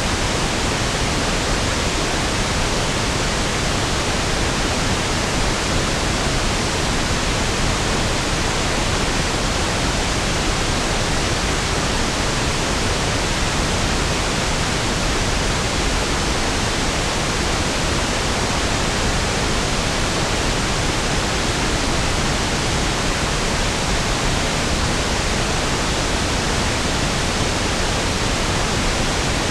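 Steady pink noise (1/f noise): an even, unchanging hiss spread across the whole range with equal energy per octave, softer and deeper than white noise.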